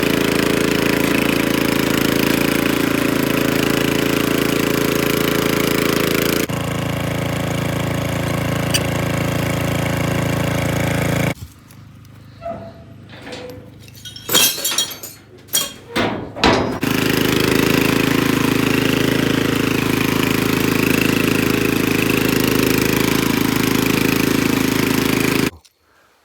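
Troy-Bilt Horse rear-tine rototiller's engine running steadily, its tone changing about six seconds in. Midway it gives way to a quieter stretch with a few sharp clinks and knocks, then the engine sound returns and cuts off abruptly near the end.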